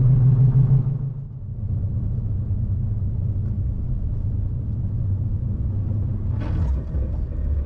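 Vehicle cabin rumble while driving on a snowy road: a low engine hum eases off about a second in, leaving a steady low road and tyre rumble, with a brief louder noise about six and a half seconds in.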